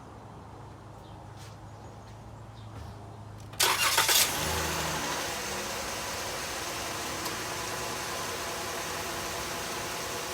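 A 2016 Dodge Journey's 3.6-litre Pentastar V6 is started a few seconds in. The starter cranks briefly, the engine catches with a short rev flare and then settles into a steady idle. This is the first start after an oil change.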